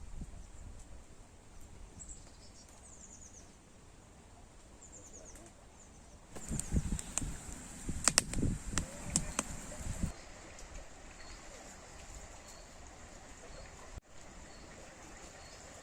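Small birds chirping now and then over a quiet outdoor background, with about four seconds of louder close rustling and several sharp clicks in the middle.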